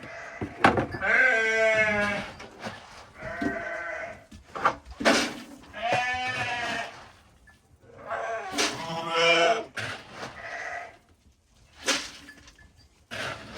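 Sheep bleating repeatedly, about half a dozen quavering calls of a second or two each with short pauses between them.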